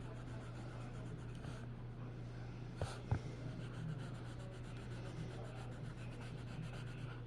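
A drawing tool scratching and rubbing steadily on paper, over a steady low electrical hum, with two sharp clicks about three seconds in.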